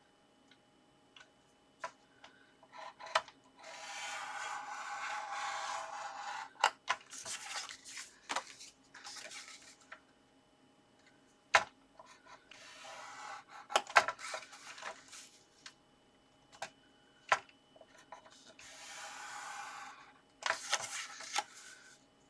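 Paper scoring on a scoreboard: a scoring tool drawn along the board's grooves through cardstock in several scraping strokes, each a second or two long, with sharp taps and clicks of paper and tool between them.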